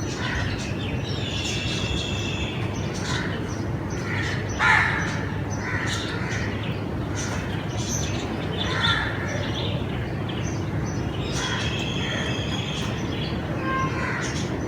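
Several birds chirping and calling over a steady low background noise, with a louder call about four and a half seconds in and another near nine seconds.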